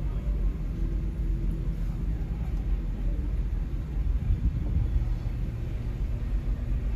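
Car engines running in street traffic, a steady low rumble with engine tones that rise and fall.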